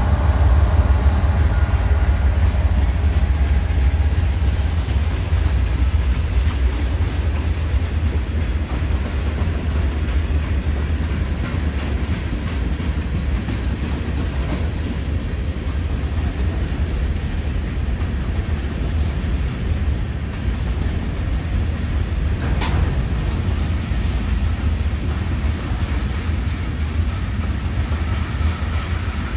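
Norfolk Southern freight train passing close by: diesel locomotives' engines running in the first seconds, then a string of covered hopper cars rolling by with a steady low rumble of steel wheels on rail. A single brief sharp noise comes about three-quarters of the way through.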